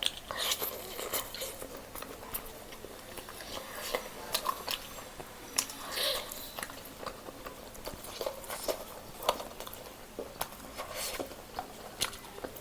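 A person chewing and biting food close to the microphone, with irregular wet mouth clicks and smacks.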